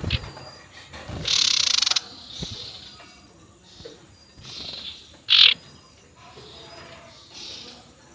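Scops owl (sirtu) calling: a harsh, hissing screech about a second in, a short sharp call near the middle, and fainter calls between them.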